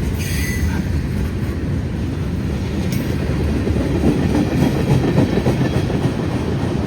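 Freight train passing close by, with a steady rumble of wheels and cars and the clack of wheels over rail joints. A brief high wheel squeal sounds at the start.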